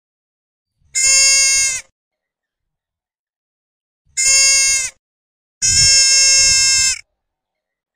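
Cow elk calling: three high mews, each held at a steady pitch and dipping slightly at the end, the last one the longest.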